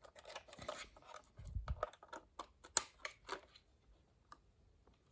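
Hands handling a plastic cordless phone base and its telephone cord: a run of small plastic clicks and scrapes, a dull bump about a second and a half in, and one sharp click near three seconds.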